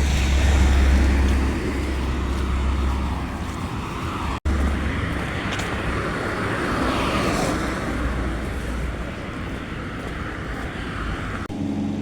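Steady vehicle noise: a low rumble under a hiss, with a sudden brief dropout about four and a half seconds in.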